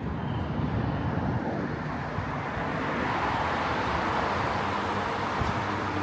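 A road vehicle passing close by: the rush of tyre and road noise swells from about halfway through and stays strong toward the end.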